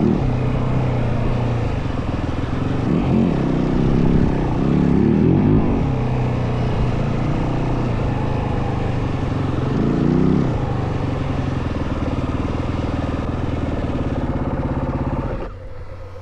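Yamaha WR450F dirt bike's single-cylinder four-stroke engine running under way, with several throttle surges. The engine drops off sharply near the end.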